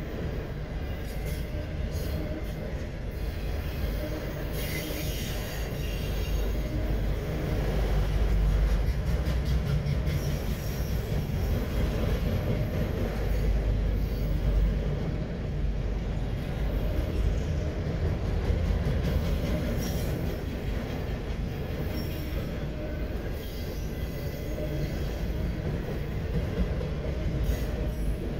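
CSX autorack freight cars rolling past close by: a steady deep rumble of steel wheels on rail with rattling and clicks. At times there is a high squeal of wheels, clearest about five seconds in.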